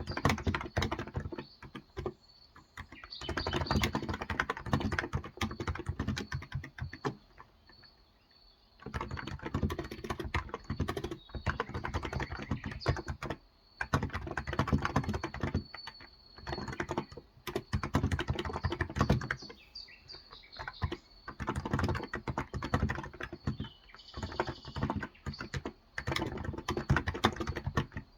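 Typing on a Cox Endeavor electrostatic capacitive (non-contact) 35 g tenkeyless keyboard: runs of quick, soft keystrokes in bursts, with a pause of a couple of seconds about a quarter of the way in.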